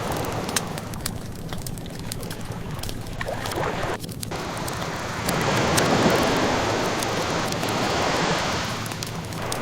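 Ocean waves washing ashore, one swell building and falling away about halfway through, mixed with a wood fire crackling in small sharp pops throughout.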